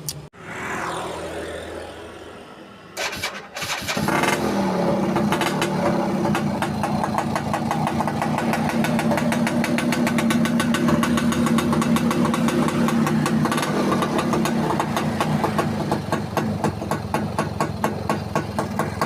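Yamaha Alfa two-stroke motorcycle engine turned over briefly by its electric starter, catching about four seconds in and then idling steadily with an even, rapid pulse.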